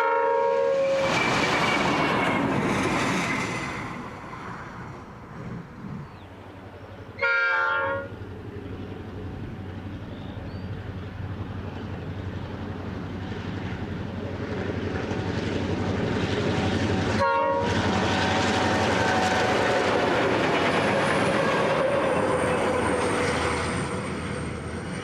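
Australian diesel-electric freight locomotives running light past the line-side, their engines and wheels rumbling. Short horn blasts sound right at the start, about 7 seconds in and again about 17 seconds in. The rumble fades for a few seconds, then builds again as the next locomotives approach.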